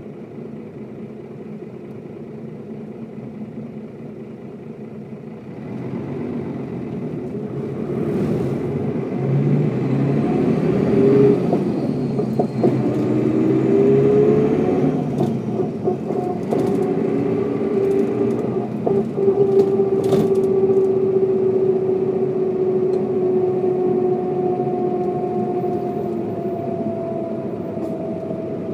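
Mercedes-Benz O407 bus's diesel engine idling, then pulling away about six seconds in, the pitch climbing and stepping through gear changes. It then runs steadily at speed with a steady whine that slowly sinks in pitch near the end.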